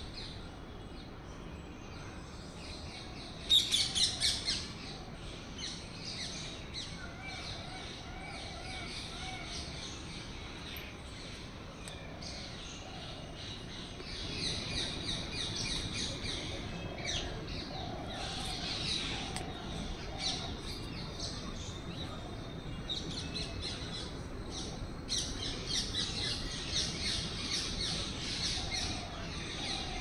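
Small birds chirping and twittering in rapid runs of high notes, loudest in a short burst about three and a half seconds in and busier through the second half. A lower, wavering call comes and goes beneath them.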